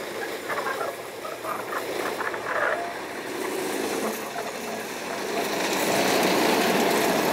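Sugar-factory railway train running, the rumble of its wheels and engine growing louder over the last couple of seconds.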